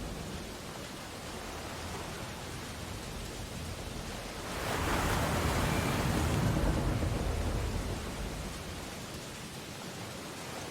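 Ocean waves breaking on a beach: a steady wash of surf, with one wave swelling up about halfway through and its rush fading away a few seconds later.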